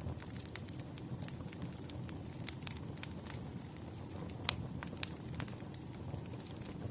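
Wood fire burning: a steady low rumble of flames with irregular sharp crackles and pops from the burning logs, one louder pop about halfway through.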